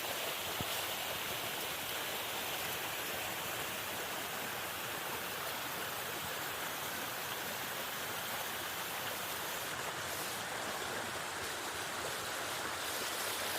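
Steady rushing of monsoon water from a stream or waterfall, an even, unbroken sound.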